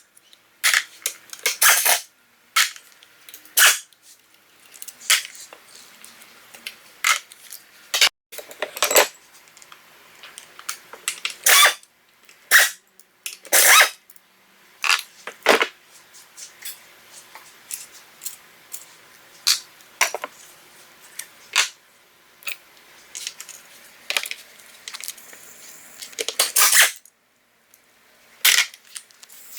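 Metal tools and parts clinking and knocking as they are handled during a transmission teardown: irregular sharp clacks, some a second or more apart, some in quick clusters.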